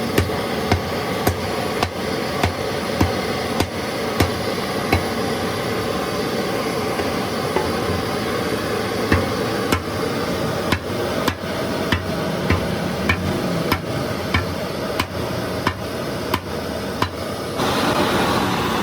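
Repeated hammer strikes at an even pace, a little under two a second, over a steady workshop hum.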